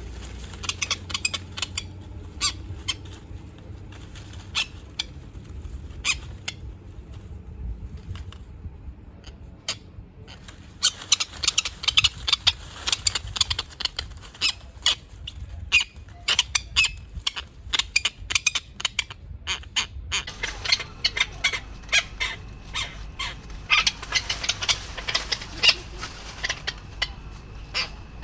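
Tropicbirds giving rapid series of short, shrill calls as they fight. The calls come in quick volleys, sparse at first and crowding together from about a third of the way in, over a steady low rumble.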